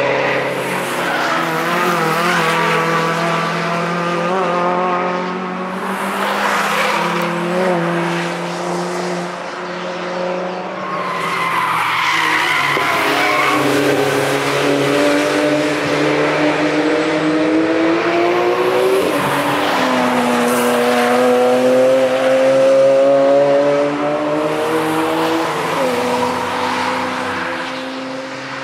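Several cars passing one after another at speed, their engine notes rising and falling through gear changes, with tires squealing about twelve seconds in.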